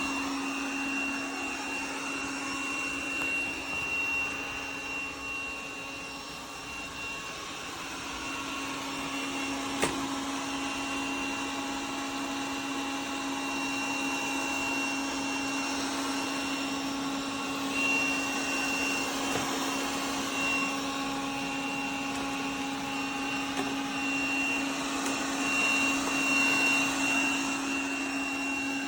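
Robot vacuum cleaner running: a steady motor hum with a high whine over it, and a single sharp click about ten seconds in.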